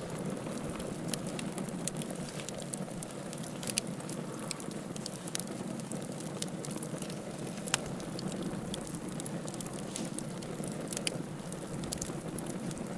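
Wood fire in a fireplace burning with a steady low hiss and frequent sharp crackles and pops, the loudest pop near the middle.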